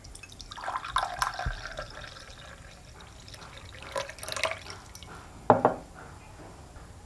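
Tea being poured and dripping into cups, with a few light clinks of cup or glass and one sharp clink about five and a half seconds in.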